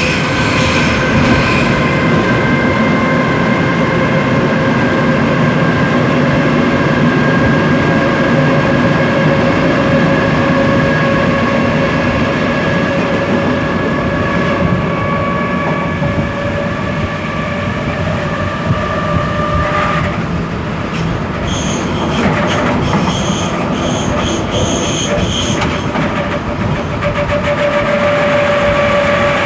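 Berlin S-Bahn class 485 electric train running at speed, heard at an open window: rumble of wheels on track under a steady whine of several tones that slowly rise in pitch. About two-thirds of the way through the whine breaks off and a high, pulsing squeal sounds for a few seconds, then the lower whine returns near the end.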